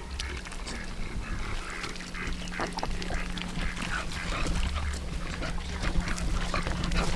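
Ducks quacking and dabbling at a pond, a run of short, scattered calls and splashes over a faint steady low hum.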